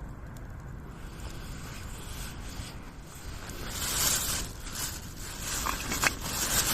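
Rustling and scraping sounds that grow louder and come in several swells in the second half, over a low steady rumble.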